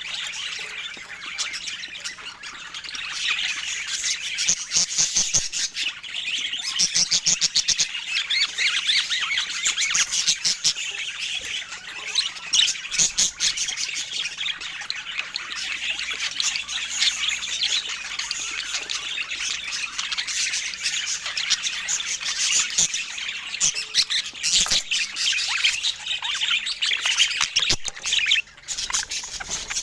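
Budgerigars chattering: a continuous stream of quick, high chirps and squawks.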